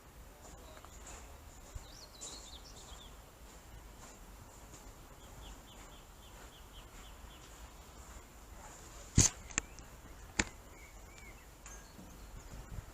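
Quiet station-platform background with small birds chirping in quick runs of short notes. A little past the middle come three sharp clicks or knocks, the first the loudest.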